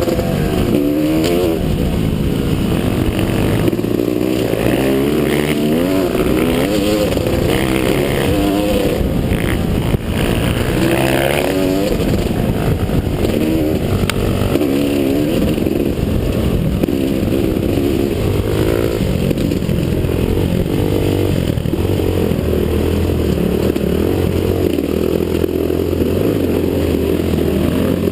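Motocross dirt bike engine running hard, its pitch rising and falling over and over with throttle and gear changes, then holding steadier and lower later on.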